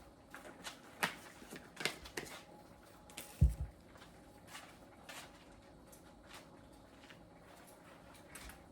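Kitchen handling noises: a string of light clicks and taps from containers and utensils, with one heavier low thump about three and a half seconds in, then a few fainter ticks.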